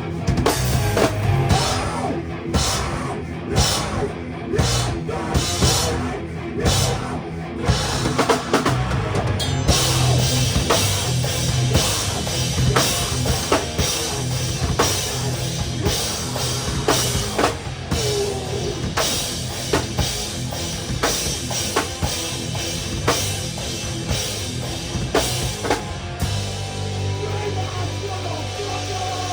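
Live rock band with the drum kit to the fore. Stop-start accented hits for the first ten seconds or so, then the full band playing with cymbals ringing. Near the end the cymbals stop and a held low guitar and bass chord rings on.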